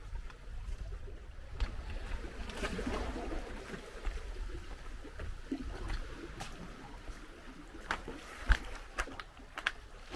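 Sea water washing and trickling at the shoreline, with wind rumbling on the microphone and scattered short clicks, the sharpest a little past eight seconds in.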